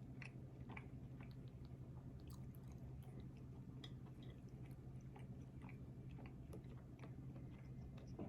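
Faint, close-up chewing of fast food, with many small wet mouth clicks scattered throughout, over a steady low hum.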